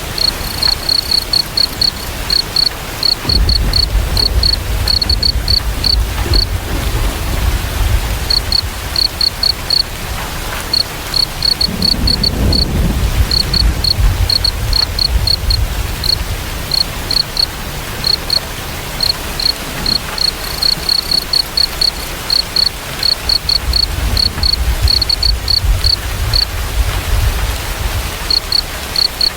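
A cricket chirping in quick runs of short, evenly spaced high chirps with brief pauses, over a steady hiss of rain. Low rumbles come in three spells, near the start, around the middle and near the end.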